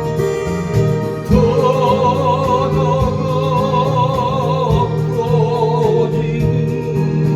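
Strummed acoustic guitar accompanying a singing voice; about a second in, the voice holds one long note with vibrato for about three seconds.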